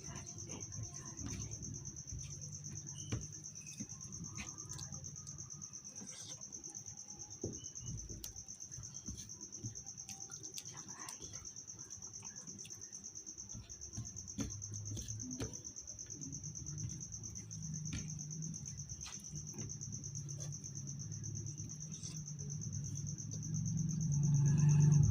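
A continuous, steady high-pitched trill like an insect's, with scattered light clicks over a low hum that grows louder near the end.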